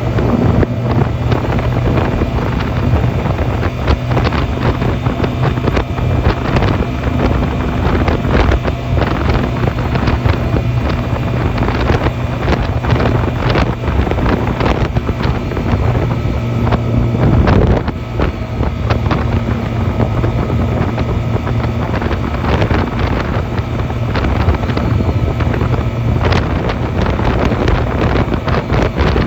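Honda 250cc motorcycle engine running steadily on the move, with wind buffeting the microphone; the engine note dips briefly about eighteen seconds in.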